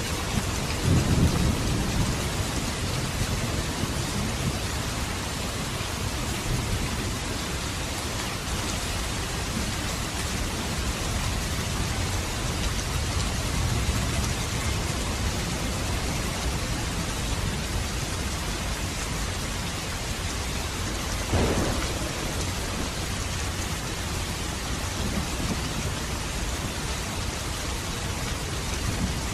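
Steady rain falling on surfaces, with low rumbling thunder swelling about a second in. A brief louder rumble comes about two-thirds of the way through.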